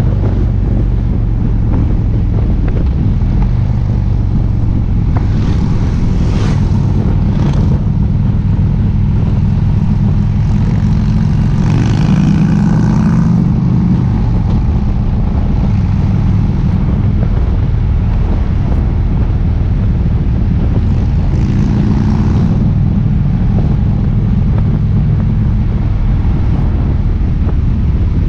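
Harley-Davidson V-twin engine of a 2012 Ultra Limited running steadily at road speed, heard from a camera on the bike, with wind rush. The engine note swells briefly a few times, about six, twelve and twenty-two seconds in.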